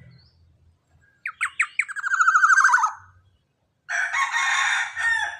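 Young black-naped oriole calling: a few sharp, quick notes run into a fast trill that drops in pitch, then a harsh, raspy call about a second later.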